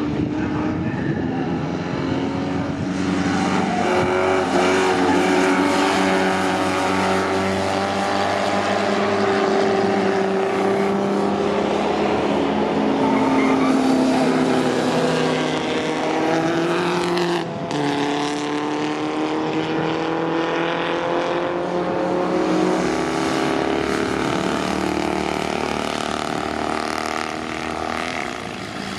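Several vintage racing cars' engines running hard on track, their pitches rising and falling over one another as they accelerate, change gear and pass. There is a brief sharp drop in sound about seventeen seconds in.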